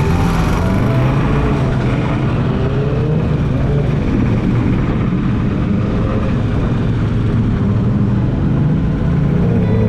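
Yamaha Dragstar XVS 1100 V-twin motorcycle engine running steadily while riding on the road.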